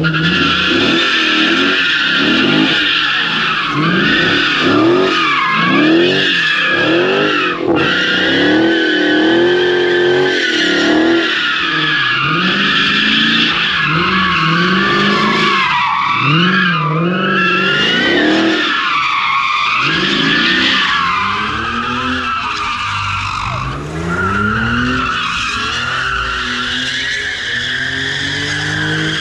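A car doing donuts: the tyres squeal steadily while the engine's revs rise and fall over and over as it slides in circles.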